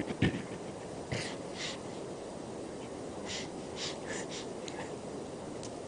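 A pause in a live Quran recitation: steady background noise of the hall, with a couple of clicks near the start and several short breathy hisses scattered through, like breaths close to the microphone.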